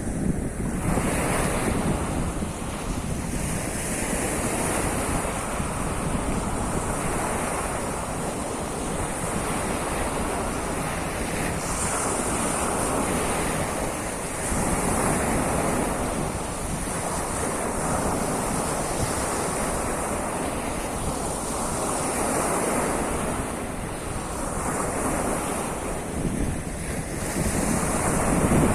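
Sea of Azov surf washing onto the shore: a continuous rush of breaking waves that swells and ebbs every few seconds, with wind buffeting the microphone.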